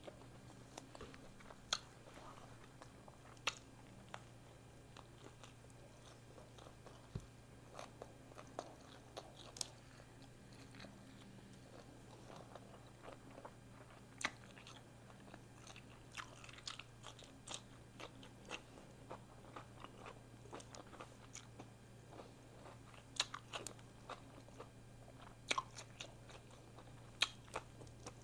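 A person chewing and biting food close to the microphone: irregular wet mouth clicks and crunches over a faint steady low hum.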